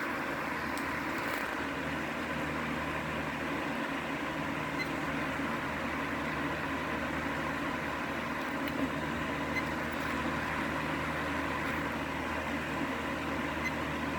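Unbranded 12-inch chrome oscillating table fan, model HF-30CD, running steadily: an even rush of air over a low motor hum, with a faint steady whine.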